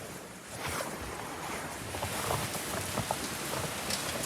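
Steady rain falling, with many separate close drops ticking over the even hiss; it grows louder about half a second in.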